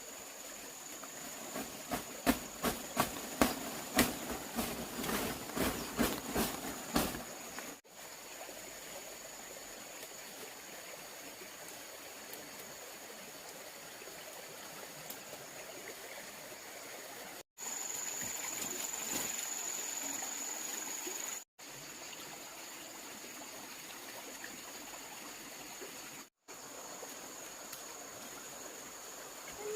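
A quick series of sharp knocks or taps, roughly two or three a second, for about five seconds. Then a steady hiss with a constant high-pitched insect drone, cut off abruptly for an instant several times.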